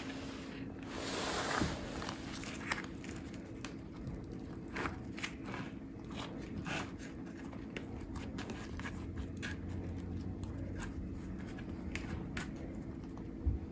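Kitchen handling noises: scattered light clicks, taps and scrapes, with a brief rustle about a second in and a thud near the end, over a steady low hum.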